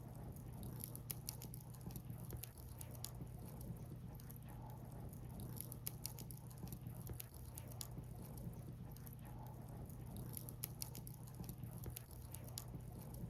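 Burning firewood crackling, with many small irregular pops and snaps over a steady low rush.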